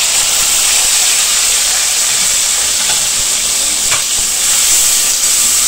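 Chopped tomatoes and ginger-garlic paste sizzling loudly in hot oil in a metal karahi as they are stirred with a wooden spoon.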